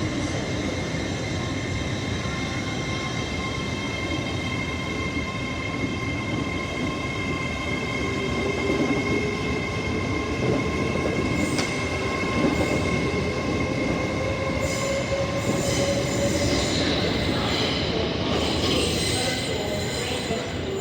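Great Western Railway Hitachi electric train pulling out, running with a steady high-pitched whine and a drive whine that rises slowly in pitch as it gathers speed, over wheel and rail noise.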